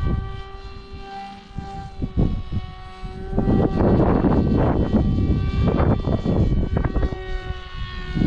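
Electric motor and propeller of a foam RC flying wing whining at a steady pitch, with gusty wind buffeting the microphone, much heavier from about three and a half seconds in.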